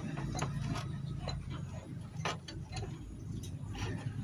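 Irregular light metallic clicks and taps, as of hand tools and small parts being handled during motorcycle engine work, over a steady low hum.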